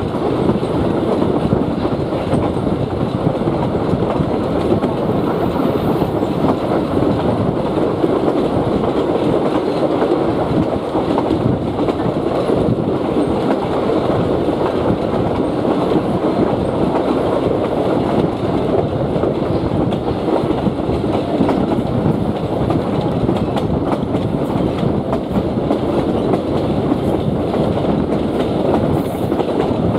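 Passenger car rolling along the track: a steady, loud rumble of wheels on the rails, heard at an open window of the moving car.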